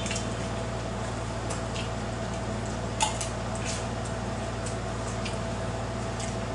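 Eating sounds: wet chewing and scattered short smacking clicks over a steady low hum, with one sharper click about three seconds in.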